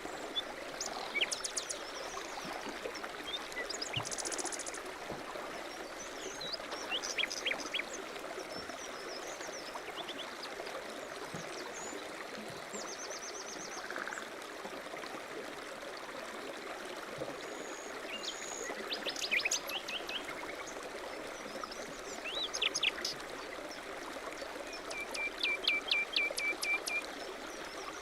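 A mountain stream flowing steadily, with small birds chirping on and off over it; near the end a bird gives a quick trill of about eight evenly repeated notes.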